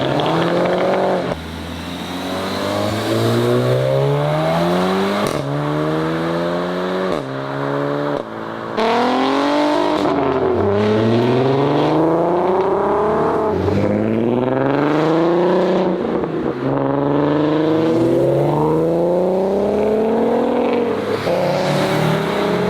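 Modified Volkswagen engine accelerating hard. Its pitch climbs steadily, drops at each gear change and climbs again, many times over.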